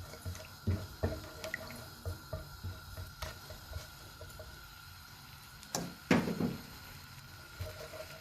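Light clicks and knocks of a spoon against a cooking pot, with a louder clatter and scrape about six seconds in.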